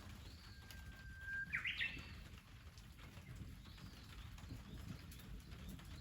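A wild songbird singing: one long steady whistled note, then a quick jumble of higher notes about a second and a half in. Other faint short bird calls come at the start, in the middle and near the end, over a low steady background noise.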